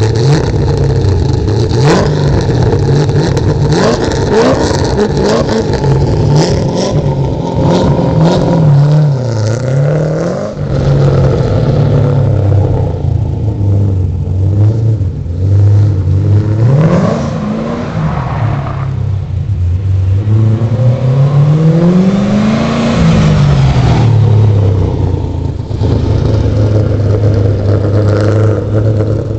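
Chevrolet LS1 V8 swapped into a Nissan 240SX, freshly started and running with several slow rises and falls in revs, the longest climb and drop about three-quarters of the way through.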